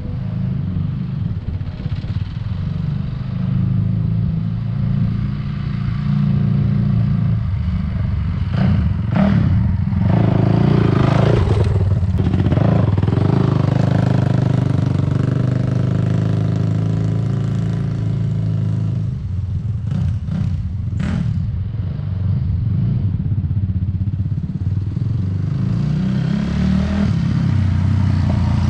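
Honda CRF450R's single-cylinder four-stroke engine running loudly through an FMF full exhaust (header and pipe), the revs rising and falling. The owner believes the exhaust has no spark arrestor, which is why it is so loud.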